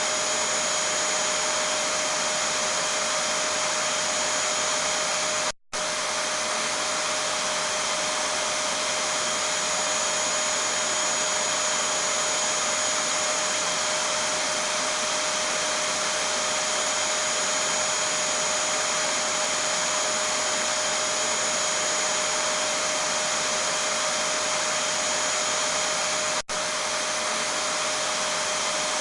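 Vacuum cleaner running steadily: a constant rushing hiss with a steady whine on top. The sound cuts out for a split second twice, about six seconds in and near the end.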